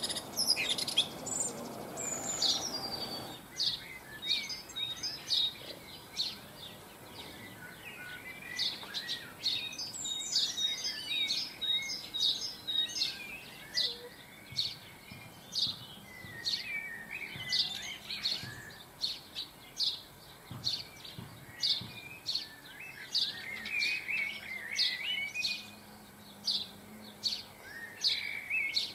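Small garden birds chirping and twittering: a steady run of short, sharp chirps a few times a second, mixed with twittering phrases. A rushing noise in the first few seconds.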